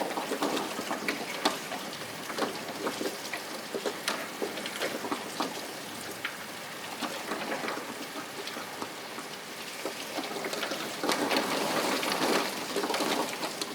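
Rain falling, with many separate drops striking a surface as quick ticks over a steady hiss; it grows heavier about eleven seconds in.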